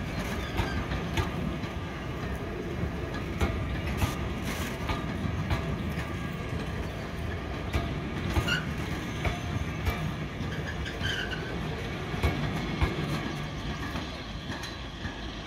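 Train running on the line with a steady low rumble, its wheels clicking irregularly over the rail joints, with a few brief high wheel squeals.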